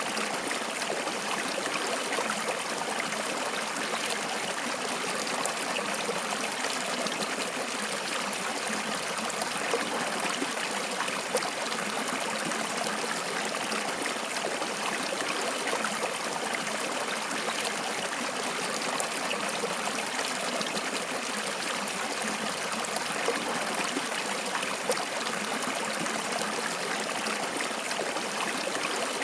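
Flowing water: a stream running and trickling steadily, with small splashes and gurgles.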